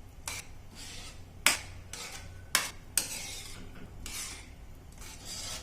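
A utensil stirring curd into thick masala in a cooking pan: swishing, scraping strokes with about four sharp clinks against the pan.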